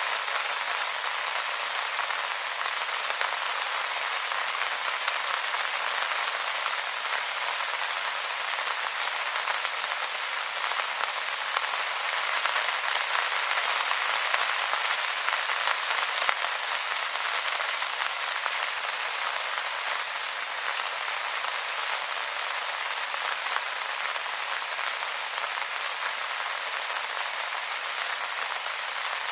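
Steady rain pattering on wet leaves, a dense, even hiss of many small drops.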